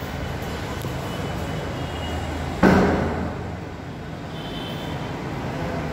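Steady rumble of a passing train, with faint high wheel squeal near the end. About halfway through there is one sudden loud knock that dies away within a second.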